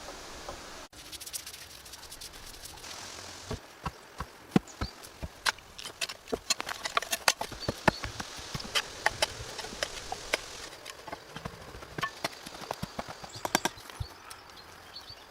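Hand-tool work: a quick, irregular series of sharp knocks and taps of varying strength, with the loudest strikes in the middle.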